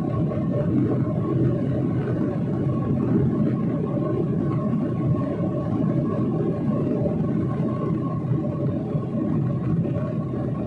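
Steady drone of aircraft engine noise: a constant low rumble with a faint steady whine above it.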